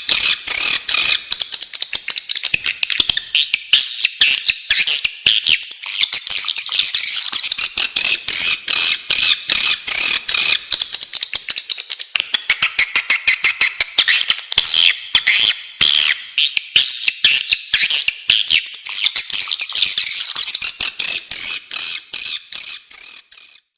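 Swiftlets twittering in a dense, fast stream of short high chirps: the swiftlet call played as a lure to draw the birds into nesting houses. The chirping fades out near the end.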